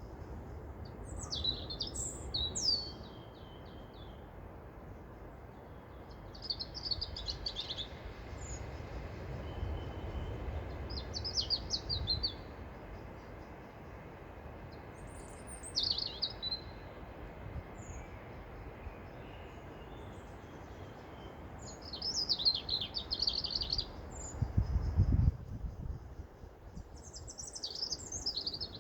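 A songbird singing short, repeated phrases every few seconds, over a steady low rumble of wind that swells briefly near the end.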